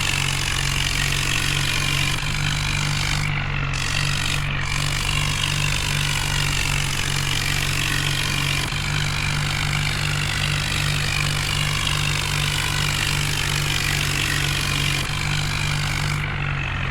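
Heavy diesel engine running steadily, with a wavering higher whine above its low drone.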